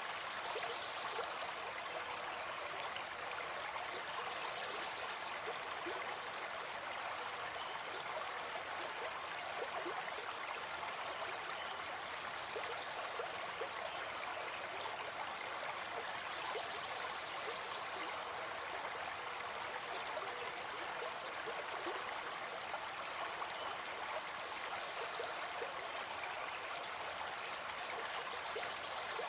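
Shallow forest stream flowing steadily over rocks, a continuous rushing and trickling of water.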